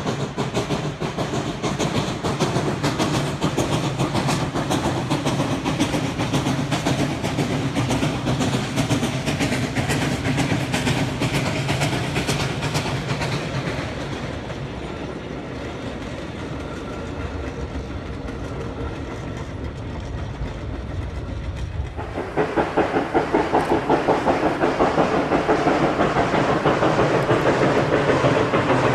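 Steam-hauled mixed train behind Duluth & Northeastern 2-8-0 No. 28 rolling along, its wheels clicking rapidly over the rail joints. About two-thirds of the way through, the sound changes abruptly to a louder, steadily pulsing train sound.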